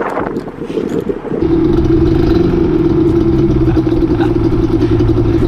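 Rough noise for about the first second and a half, then a vehicle engine running with a loud, steady, unchanging drone.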